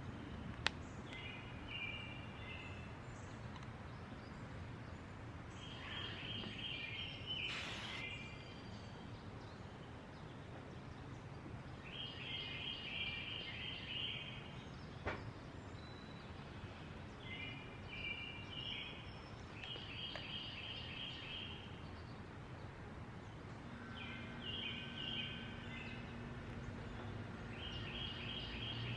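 A songbird singing short, repeated trilled phrases every few seconds over a steady outdoor background hiss. Two sharp clicks and one brief burst of hiss stand out.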